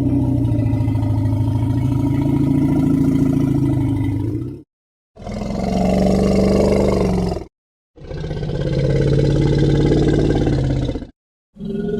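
Three long, low roars one after another, the first about five seconds and the next two shorter, each cut off by a moment of dead silence; a fourth begins near the end.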